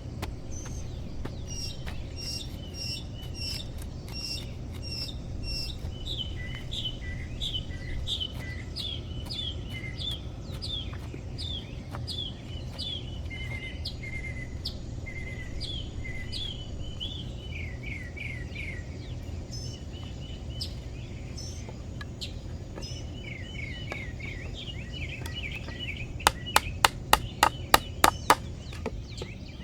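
Small birds chirping, many short repeated notes, over a steady low rumble of background noise. Near the end comes a quick run of about ten sharp knocks, the loudest sound.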